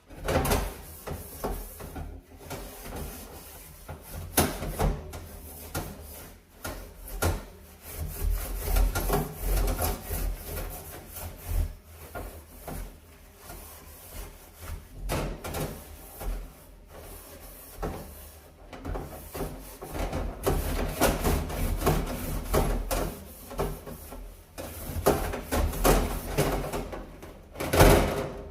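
Dirty stove surfaces being scrubbed with a brush, in uneven rubbing strokes that come in busier and quieter spells.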